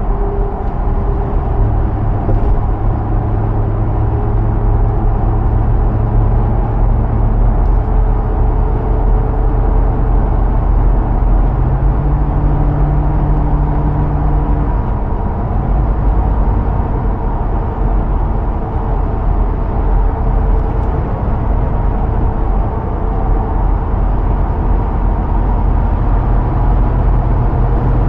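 2005 Hummer H2's 6.0-litre V8 running steadily under way, with road noise. Its note steps up briefly about twelve seconds in and drops back a few seconds later.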